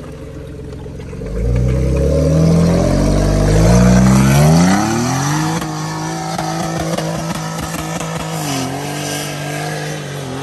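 Off-road 4x4's engine revving hard as it takes on a steep hill. The revs climb over a few seconds, then hold steady and ease off a little near the end.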